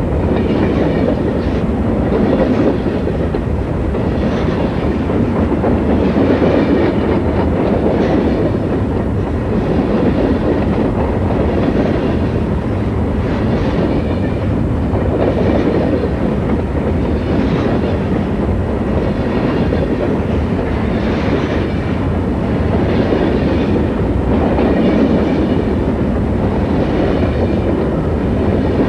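Southern Pacific freight train rolling past, a steady heavy rumble with the clickety-clack of wheels over rail joints recurring about every two seconds.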